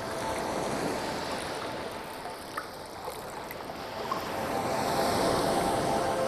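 Sea waves washing in, an even hiss of surf that eases off midway and then swells to its loudest near the end as a wave comes in.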